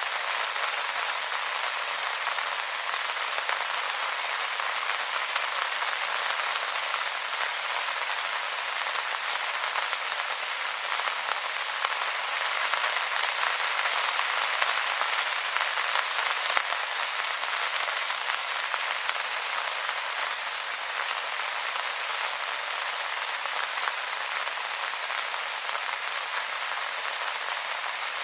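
Steady rain falling on wet leaves: an even hiss of many small drops, with no low rumble.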